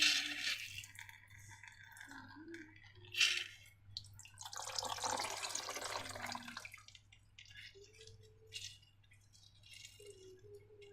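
Wet slime sounds, with dripping and a thick liquid being poured or worked. There is a sharp sound at the start and another about three seconds in, and a longer wet stretch of about two seconds in the middle.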